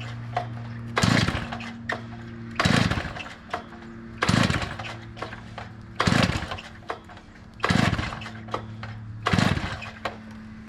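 Two-stroke gas cut-off saw (Quickie Saw) being pull-started with the choke on: the recoil starter cord is yanked six times, about every second and a half, and the engine does not catch. The saw has sat unused for years.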